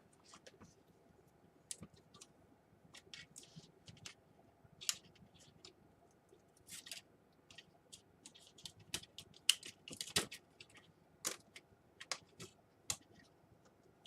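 Irregular small clicks, taps and short scrapes of plastic laptop parts being handled and fitted together, the loudest cluster about ten seconds in.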